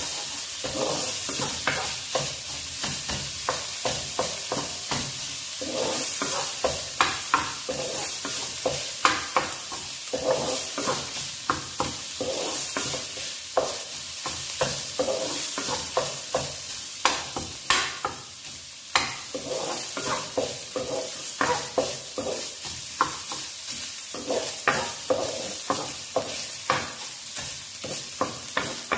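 Minced pork sizzling in hot oil in a frying pan, with a steady hiss, while a wooden spatula stirs it and scrapes and knocks against the honeycomb-textured pan at an irregular pace.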